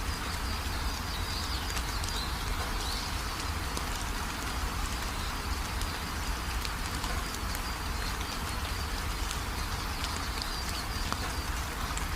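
Steady rain falling, with many small drop ticks, and faint high bird chirps now and then.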